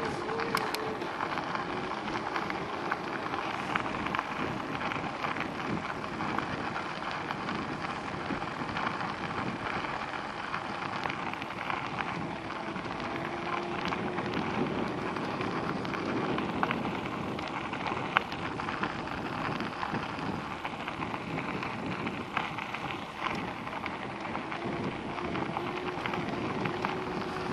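Riding noise from an e-bike: a steady rush of tyre and wind noise, dotted with small clicks and rattles, with a faint hum that comes and goes.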